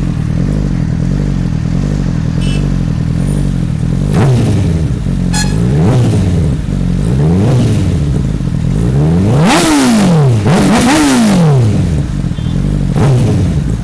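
2012 Honda CBR1000RR's inline-four engine through a LeoVince full carbon exhaust, idling steadily and then revved in about six quick blips, each rising and falling back to idle, the two highest a little past the middle.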